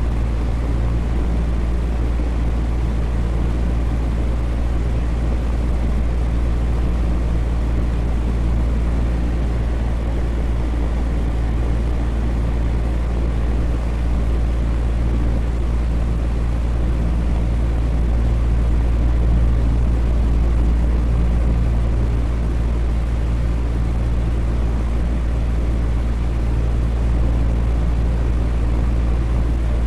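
Electric fan running steadily: a low motor hum with the rush of air from the blades, unchanging throughout.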